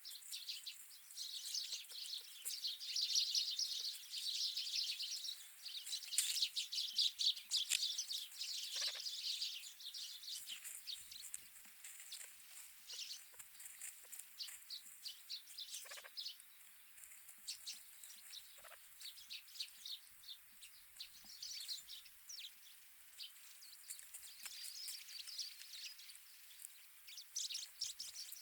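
Wild winter birds chirping and chattering at a feeder: a dense run of quick, high calls, busiest in the first ten seconds and again near the end, with a few short calls dropping in pitch in between.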